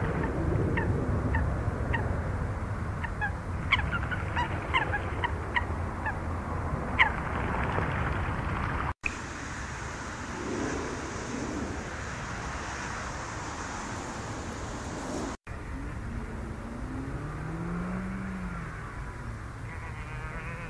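Outdoor ambience in three cut-together parts. First, a bird's short sharp calls come several times a second over a steady low rumble. Then comes a steady high hiss, and last a low sound that rises and falls in pitch once near the end.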